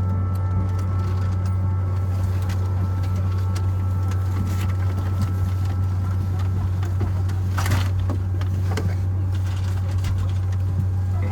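Steady low hum inside the cabin of a Boeing 767-300ER parked at the gate, with a brief clatter about eight seconds in.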